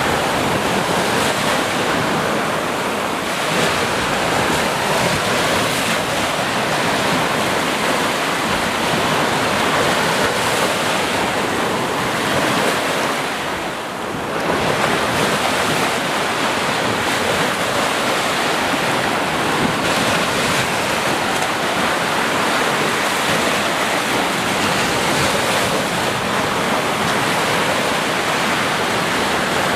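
Sea surf washing steadily onto a shore. About halfway through there is a brief lull, then a new wave surges in.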